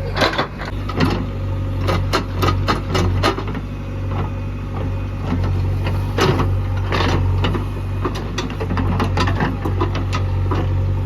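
Heavy diesel engine running steadily, with frequent sharp knocks and clanks over it.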